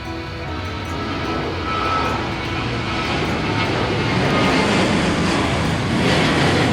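An airplane's engines passing by, the noise growing steadily louder over the first few seconds and then holding.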